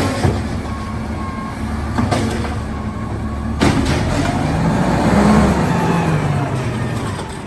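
Garbage truck engine running, with a few sharp knocks and a rise and fall in engine pitch in the second half.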